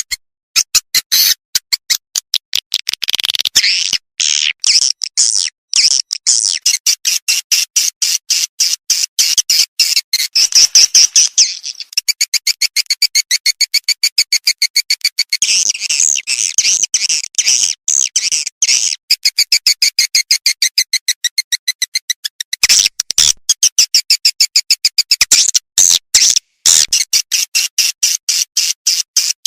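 Edible-nest swiftlet call recording, the kind played to lure swiftlets into a bird house: fast, evenly repeated sharp chirps, several a second, with stretches of high twittering.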